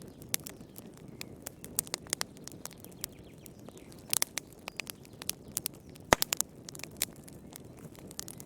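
Wood fire in a fireplace crackling: irregular sharp snaps and pops over a soft steady rush of flame, with a cluster of pops about four seconds in and the loudest snap about six seconds in.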